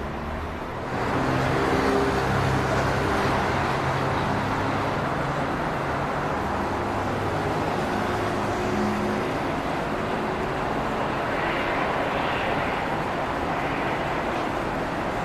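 Jet airliner engine noise, a steady rushing sound with faint low tones in it. It swells about a second in and then holds.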